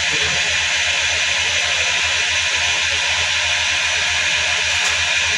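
CNC machine tool running, a steady hiss over a low hum with no change in pitch or level.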